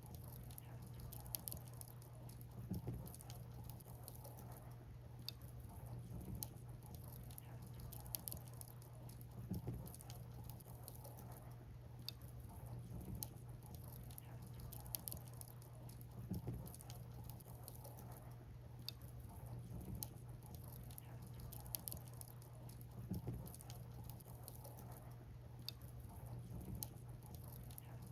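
Wood fire crackling, with sharp snaps and pops of burning firewood every second or so over a low steady hum.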